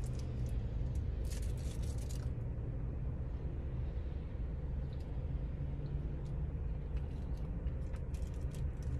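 Steady low rumble of a car's engine idling, heard inside the cabin, with a few light clicks and taps in the first two seconds.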